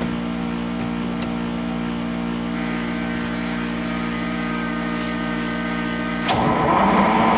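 A steady hum, then about six seconds in a 6-71 Detroit Diesel two-stroke inline-six on a 1967 International Harvester cabover truck is suddenly cranked over cold by its starter. It is cranking without ether, not yet firing.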